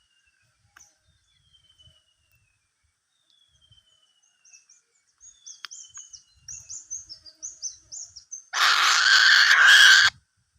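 Birds calling: a thin whistle falling in pitch, repeated about every two seconds, then a quick run of high chirps at about two a second. Near the end a loud, harsh hissing noise of about a second and a half covers them.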